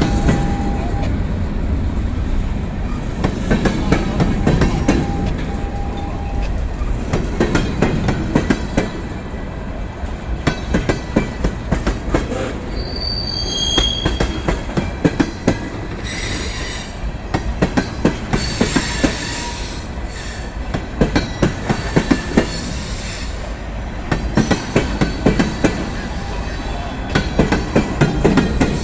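Freight train backing slowly into a siding: a steady low rumble of rolling cars, with wheels clicking and knocking over rail joints throughout. Wheel flanges squeal shortly a little before halfway and again for several seconds soon after.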